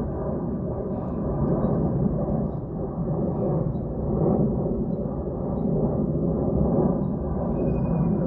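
Airplane passing overhead: a steady low rumbling drone with faint held tones, holding about the same loudness throughout.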